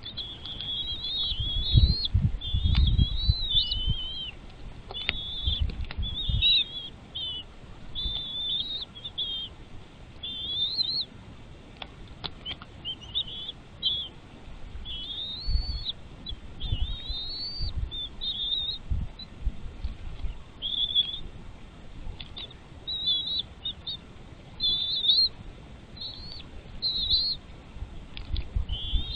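Bald eagles giving a long series of short, high-pitched, wavering chirping calls at the nest, with low rumbles in between.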